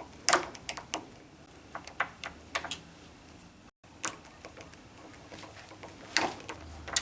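Irregular sharp metallic clicks and knocks as the old deadbolt's latch hardware is worked loose and pulled out of the door edge, the loudest a pair of clacks about six seconds in.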